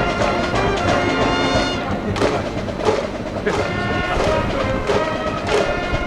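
High-school baseball cheering band playing a cheer song from its medley: brass holding pitched notes over steady drum beats.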